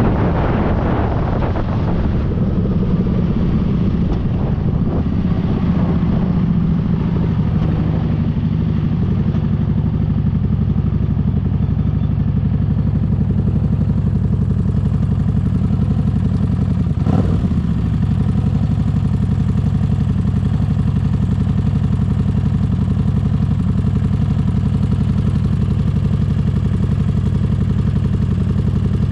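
Motorcycle engine running at a steady low speed, with wind noise dying away in the first couple of seconds. A short sweep of sound comes about seventeen seconds in.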